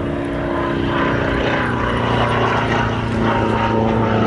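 Sukhoi SU-26M aerobatic plane making a high-speed pass, its nine-cylinder radial engine and propeller running hard. The sound grows a little louder as it comes by.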